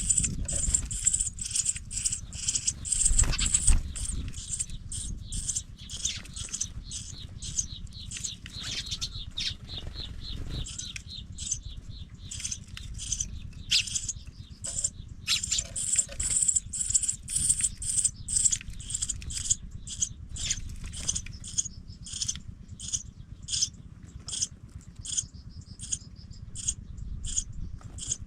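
Pipit nestlings cheeping, a rapid run of short high calls repeating several times a second, over low rustling and bumping with a louder thump about three seconds in.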